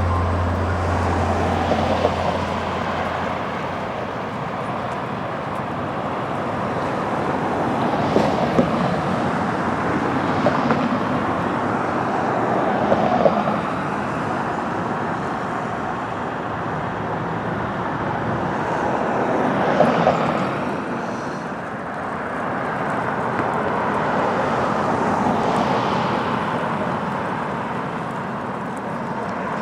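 Street traffic: cars passing one after another, each swelling and fading every five or six seconds over a steady hum of the road, with a few sharp clicks.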